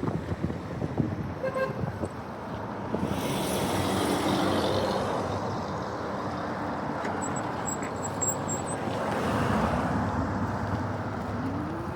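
City street traffic heard from a moving bicycle: vehicles passing with a steady low rumble, a short car-horn toot about a second and a half in, and an engine rising in pitch near the end.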